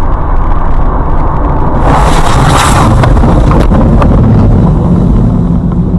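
Loud, steady low rumble of a moving vehicle, with a burst of hissing noise about two seconds in that lasts about a second, followed by a few sharp clicks.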